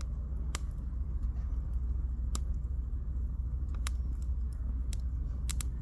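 Firewood burning in a campfire, crackling with about seven sharp, irregular pops, over a steady low rumble.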